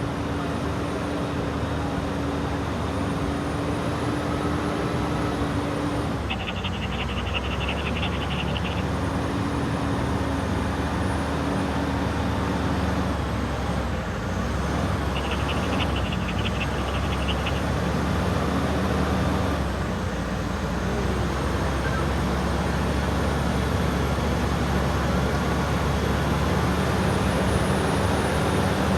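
Heavy truck diesel engine running steadily and hard as the truck struggles up a slippery incline. Twice, a rapid high ticking rattle lasting about two seconds sounds over the engine.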